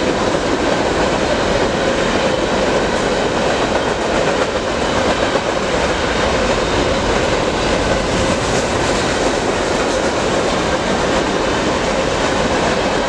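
BNSF freight train's cars rolling past on the rails, a loud, steady rumble of wheels and cars.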